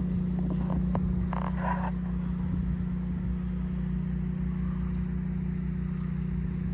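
Steady low engine hum from an idling vehicle or machine, with a brief rustle about a second and a half in.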